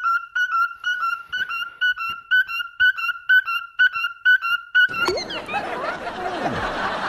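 Cockatiel whistling one high, clear note over and over, evenly, several times a second. About five seconds in it breaks off and a louder, rough, noisy sound with a steeply falling pitch sweep takes over.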